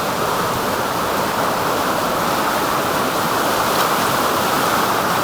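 Creek in flood, running high and rushing with a steady noise of fast water.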